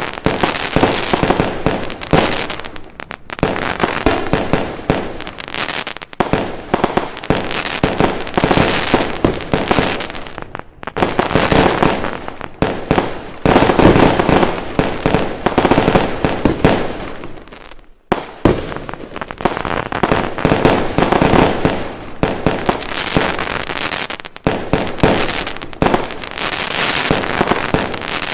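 Fireworks going off in a dense, continuous barrage of rapid bangs and crackling, with a few brief lulls between volleys.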